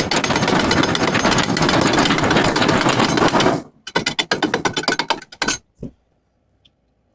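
Welding arc crackling on exhaust pipe: one continuous run of about three and a half seconds, then several short bursts before it stops.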